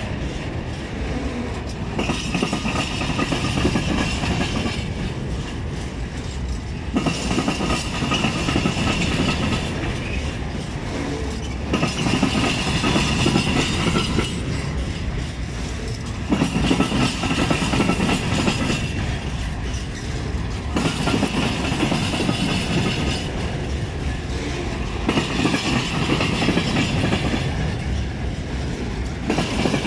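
Freight train of silo wagons rolling past close by, wheels rumbling and clacking over the rails. A higher hissing sound swells and fades about every four to five seconds as the wagons go by.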